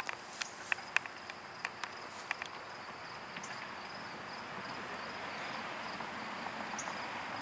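Outdoor ambience of insects chirring steadily in a high, faint tone, with a string of sharp clicks over the first couple of seconds and a soft hiss that grows through the second half.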